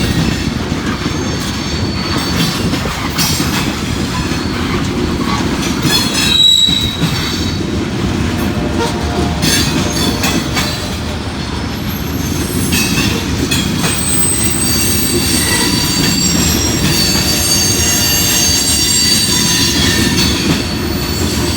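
Loaded covered hopper cars of a freight grain train rolling steadily past, wheels rumbling and clacking over the rails, with high-pitched wheel squeal coming in through the second half.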